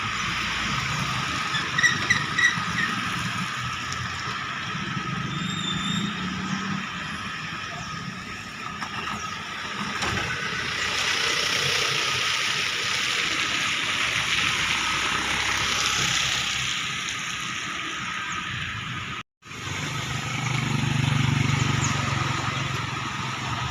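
Road traffic: cars and motorcycles passing in a steady stream, with a vehicle's engine swelling louder near the end. The sound cuts out for an instant shortly before that.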